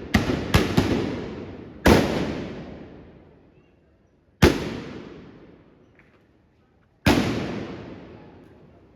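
Trabucs (blunderbusses) fired with blank black-powder charges, six loud blasts: three close together in the first second, then single shots every two to three seconds, each dying away in a long echo.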